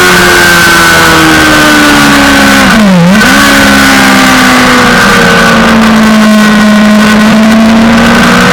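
Suzuki GSX-R600 inline-four sportbike engine at speed on a racetrack, revs easing down, dipping sharply and recovering about three seconds in, then climbing again near the end, under a heavy rush of wind noise.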